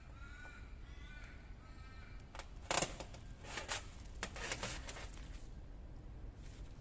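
A few sharp knocks and clinks of hand tools during engine repair work, the loudest about three seconds in and a cluster a second later. A faint distant call with a wavering pitch comes in the first two seconds.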